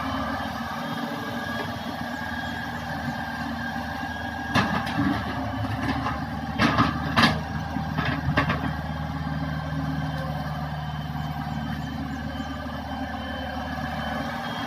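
Hitachi excavator's diesel engine running steadily, with a handful of sharp knocks from the machine working about halfway through.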